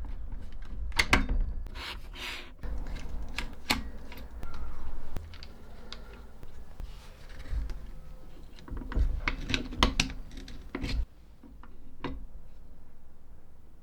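Small metal parts and hand tools being handled: an irregular run of sharp clicks and knocks with short scraping noises, clustering near the end.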